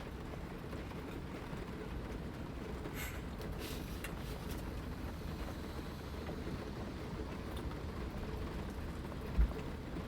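Steady heavy rain drumming on the roof of a Toyota HiAce van, heard from inside the cabin as a low, even rumble. There are a few faint small clicks about three seconds in and a single dull thump near the end.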